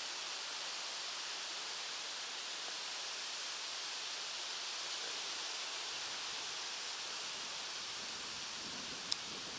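Steady, even outdoor hiss, with one sharp click about nine seconds in.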